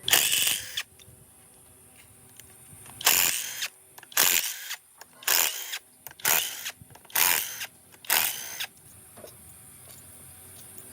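A hand-held power tool run in short bursts, about half a second each: once at the start, then six more about a second apart.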